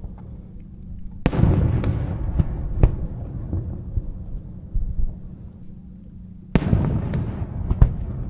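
Fireworks: two aerial shells burst with loud booms about five seconds apart. Each boom trails off in a rumble that dies away, broken by a few sharp pops.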